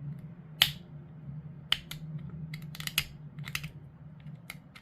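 Hard plastic model-kit pieces clicking and tapping as they are handled and pushed together: a series of sharp, unevenly spaced clicks over a steady low hum.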